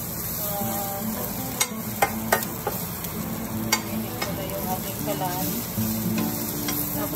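Sliced red onions sizzling as they sauté on a hot stovetop griddle, being spread and turned, with a few sharp taps of a utensil against the griddle.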